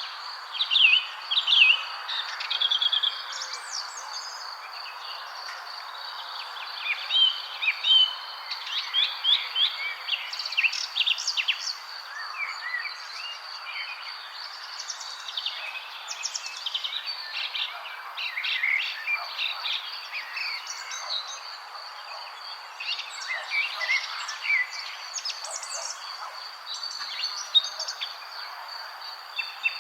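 Several wild birds chirping and singing in short, overlapping phrases and trills. A steady high-pitched tone and a soft hiss run underneath.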